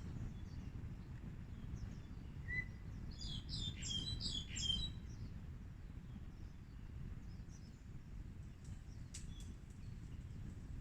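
Birds chirping: a quick run of short, high calls about three to five seconds in, with a few fainter chirps later, over a steady low rumble of outdoor background noise.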